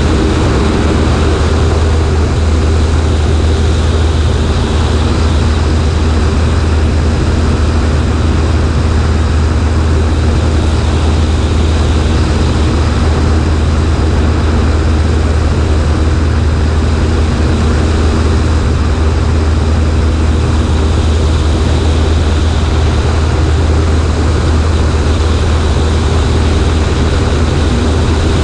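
Cessna 140A's single piston engine and propeller running steadily in flight, a loud even drone heard from the right wing.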